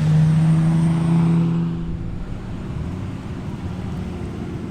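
A car engine at a street car meet, held at steady high revs for about two seconds after revving up, then dropping away into a low, rough rumble.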